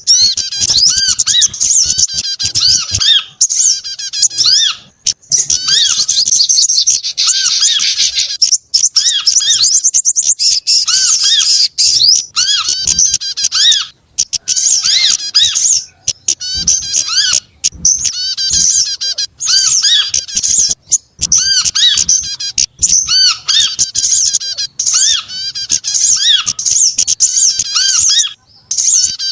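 A bird-lure recording layering the calls of several small songbirds, prinia among them: dense, overlapping high-pitched chirping and trilling with a repeated short arching note beneath it, broken only by brief gaps.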